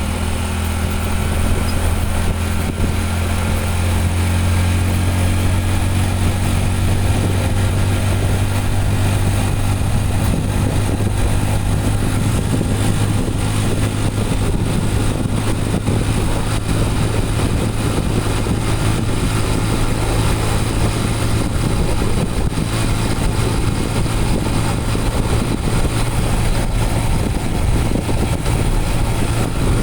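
Motorcycle engine running steadily while riding, its low engine note holding fairly even with small shifts in pitch.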